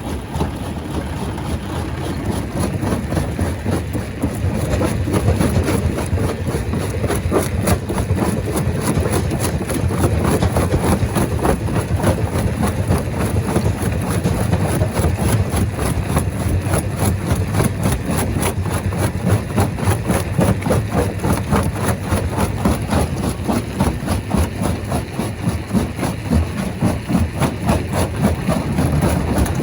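Large rock crusher machine running: a steady heavy engine drone with rapid, continuous knocking and clatter of rock being worked, a little louder after about four seconds.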